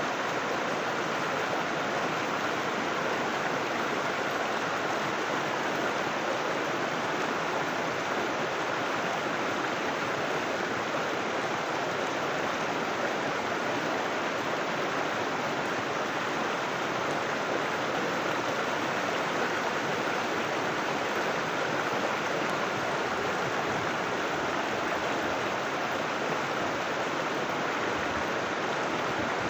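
River water flowing, a steady, even rush of water with no breaks or changes.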